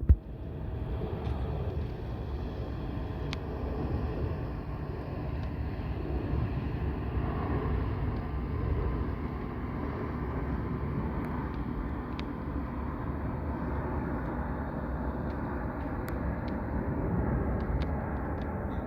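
Airbus A220-100 jet airliner flying past on a missed approach, its Pratt & Whitney PW1500G geared turbofans running with a steady rumble and a faint whine. A short thump right at the start.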